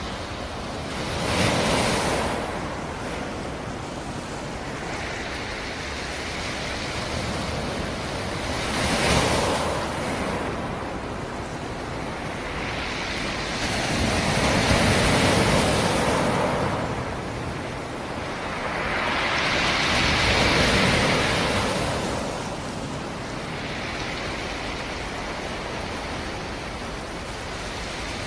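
Sea surf: waves breaking on a rocky shore over a steady wash. Four waves swell up and die away: about a second in, near 9 seconds, a longer one around 14–16 seconds, and another around 20 seconds.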